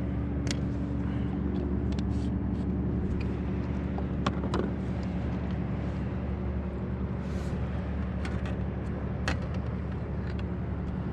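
A motor engine running steadily, a low drone with a few fixed tones, with a few light clicks and taps over it.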